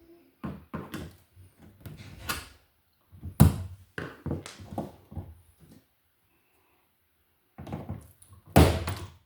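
A run of knocks and clunks from tools and parts being handled at a wall outlet box. The two sharpest knocks come about three and a half seconds in and near the end, with a short pause between.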